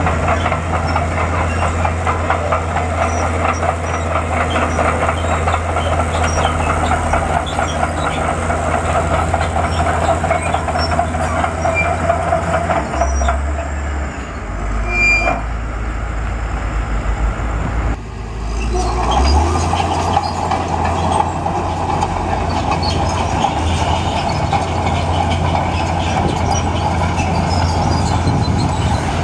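Bulldozer's diesel engine running with the clatter and squeak of its steel tracks. The clatter and engine note fall away for a few seconds around the middle, then pick up again.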